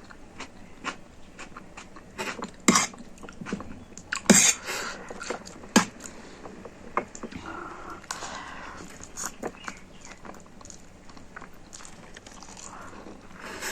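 Close-miked eating of spicy instant noodles: chewing and biting with scattered sharp clicks, the loudest about four seconds in.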